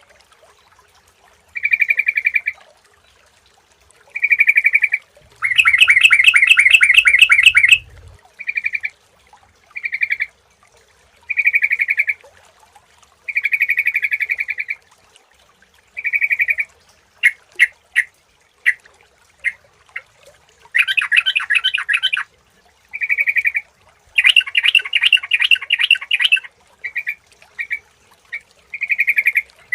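Yellow-vented bulbul (trucukan) singing: short, clear phrases repeated with gaps. Longer rapid chattering runs come about six, twenty-one and twenty-five seconds in.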